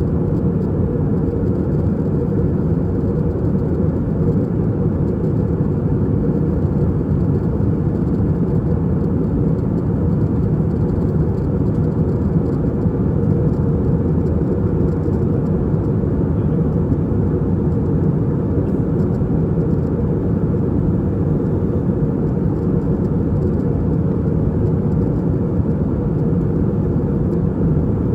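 Steady, loud cabin noise of an Airbus A320-232 in flight, heard from a window seat: the deep, even drone of its IAE V2500 engines and the airflow over the fuselage, unchanging throughout.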